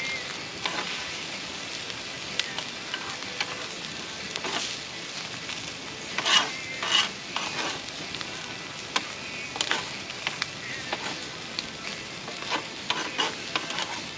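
Food sizzling as it fries in a pan, with a utensil repeatedly stirring and scraping against the pan. The scrapes are loudest around the middle.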